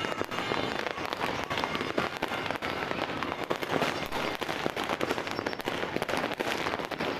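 Many firecrackers and fireworks going off at once in a constant crackle of bangs and pops, with no pause.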